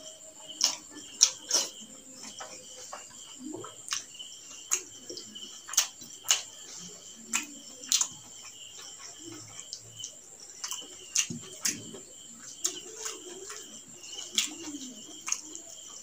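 Close-up mouth sounds of a person chewing rice and chicken gizzard curry eaten by hand: wet smacks and clicks every second or so, some sharper than others. Under them runs a steady high-pitched whine.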